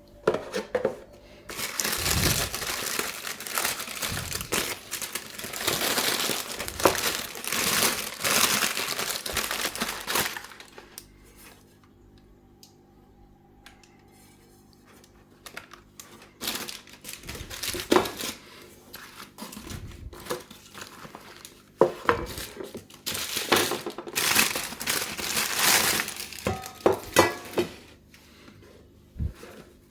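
Packaging crinkling as it is handled and unwrapped, in stretches of several seconds with quieter gaps between, and a few sharp knocks.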